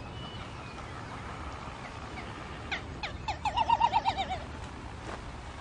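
Frigatebird calls: a quick run of wavering, warbling notes starting about halfway through and lasting over a second, led in by a few sharp clicks, over a faint steady background.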